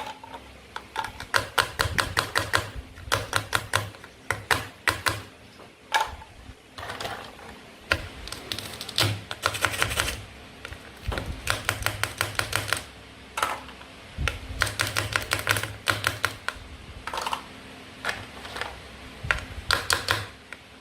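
Toy play-food fruit and vegetables being cut with a toy knife: repeated short runs of rapid, crisp clicking and crackling, with brief pauses between cuts.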